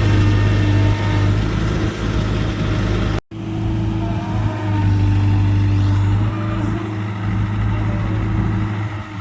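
Heavy diesel engine running steadily with a deep, even hum, cutting out for an instant about three seconds in.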